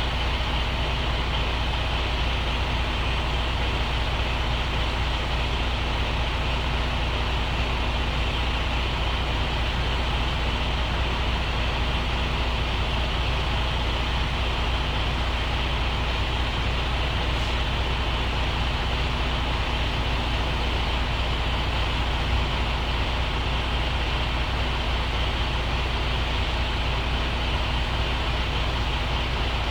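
Truck's diesel engine running steadily with a deep, even hum and no change in speed.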